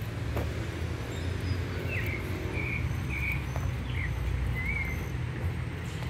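A handful of short, high bird chirps between about two and five seconds in, over a steady low rumble.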